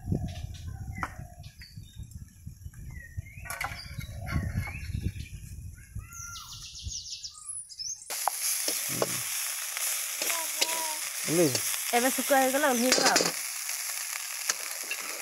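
Small dried fish frying in oil in a steel wok over a wood fire, sizzling steadily from about halfway through while a spatula stirs them. Before the sizzle there is a low rumble with a few short chirps.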